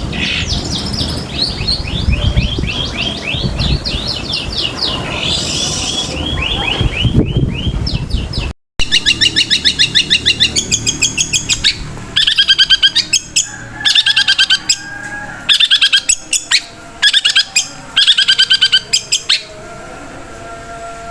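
Songbird calls: fast strings of short repeated chirps over a low background rumble. After a brief dropout about eight seconds in, they give way to several bouts of rapid chattering trills with short pauses between them.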